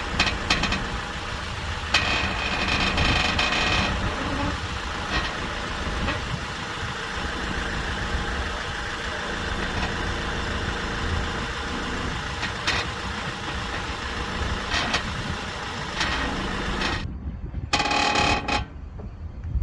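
A 2009 Honda Accord idles at a standstill while its steering wheel is turned, drawing intermittent creaks from the front suspension, which the owner takes for a failing lower ball joint. The running sound drops away abruptly near the end, then comes one short burst.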